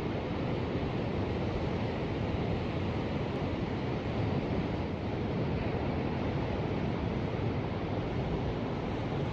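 Ocean surf: a steady wash of waves with no single breaker standing out.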